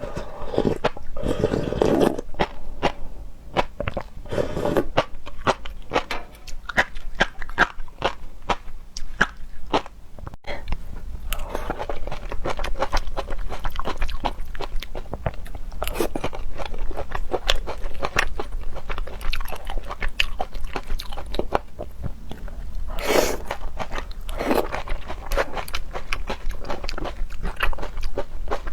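Close-up chewing and biting of seafood, with wet crunching and smacking. There are many irregular crunches, with a brief break about ten seconds in.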